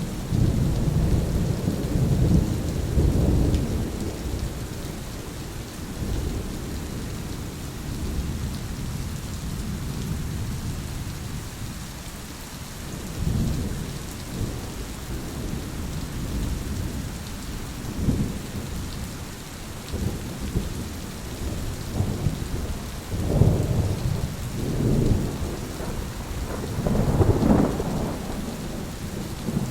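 Steady rain with rolling thunder. A long rumble comes at the start, and shorter peals come in the middle and again, strongest, near the end.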